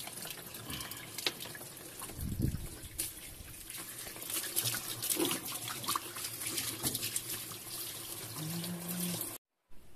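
Water running from a tap and splashing as a washing-machine part is rinsed clean, with small knocks from handling the part. It cuts off abruptly near the end.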